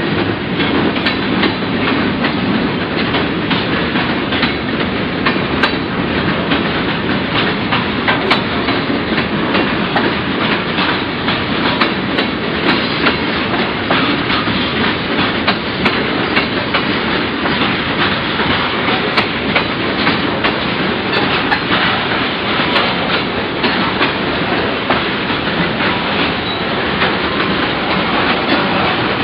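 Freight cars of a Kansas City Southern manifest train rolling past: coal gondolas, tank cars and covered hoppers with a steady rumble and frequent irregular clicks and knocks of wheels over the rail joints.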